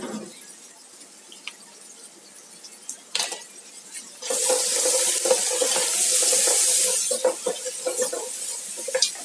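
A few light clinks of kitchen utensils, then about four seconds in a sudden loud rush of running or pouring water that holds for a few seconds and then eases off.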